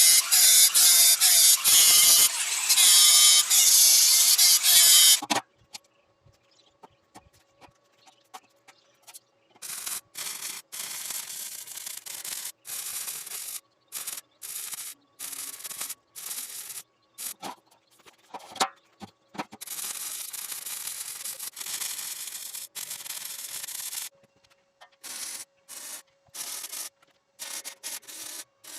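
Metalwork on steel tubing. A loud, steady abrasive noise runs for about five seconds and stops suddenly. After that come many short, quieter bursts of noise separated by gaps, over a faint steady hum.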